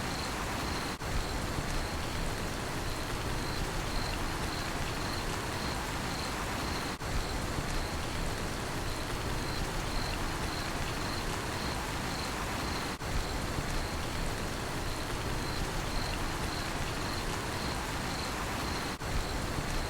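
Steady rain falling, with a cricket chirping in a regular high pulse about twice a second. The level dips briefly about every six seconds.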